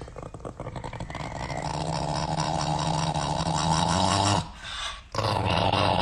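A dog growling in long drawn-out bouts that start as rapid rough pulses and grow louder, broken off briefly a little after four seconds in.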